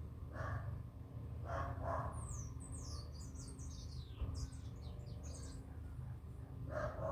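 Birds calling: a quick run of high, falling chirps in the middle, with a few short, lower calls before it and near the end.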